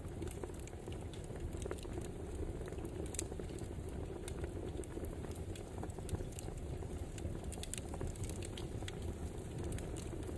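Wood fire burning: a steady low rush with many small sharp crackles and pops scattered irregularly throughout.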